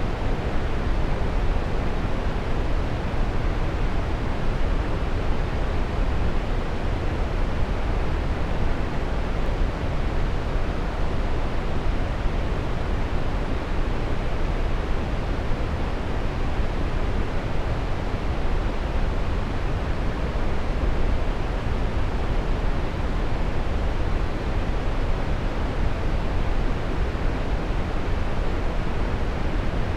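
Waterfall: a steady, unbroken rush of falling water, deep and even, with no pauses.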